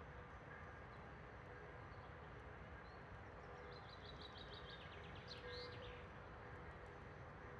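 Quiet forest ambience: a small songbird sings a quick run of about ten notes about four seconds in, ending in one rising-and-falling note. Faint scattered ticks from a campfire crackling sound under a steady soft hiss.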